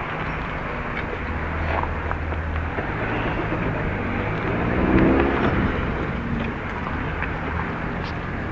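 Car driving noise heard from inside the vehicle: a steady low engine hum over road noise, with a brief louder swell about five seconds in.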